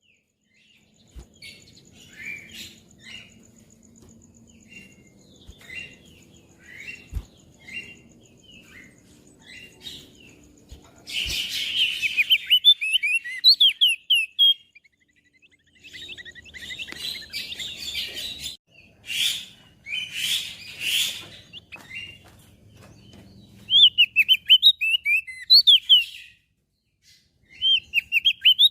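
Crested white-eye (opior jambul) singing: groups of rapid, high chirps that sweep downward, broken by short pauses, with harsher rasping bursts near the middle.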